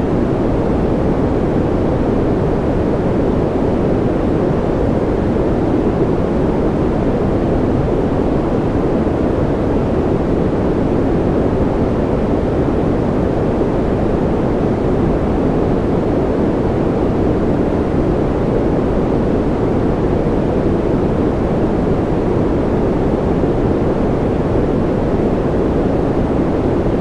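Continuous white noise for soothing a baby to sleep, perfectly steady, a deep rushing hiss with most of its weight in the low end rather than a bright hiss.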